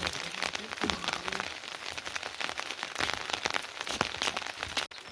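Rain falling steadily on a surface, with many separate drops heard. It cuts off suddenly near the end.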